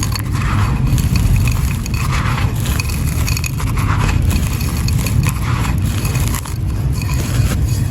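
Dry, gritty teal sand-and-clay mixture being crushed and crumbled, with repeated bursts of scraping, crackly crunching. A steady low rumble runs underneath.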